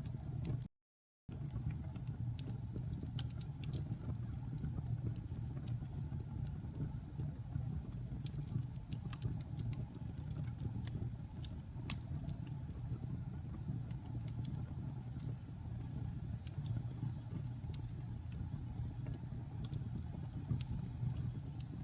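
Wood fire in a fireplace crackling, with scattered sharp pops and snaps over a steady low rumble of the flames. The sound cuts out completely for about half a second, about a second in.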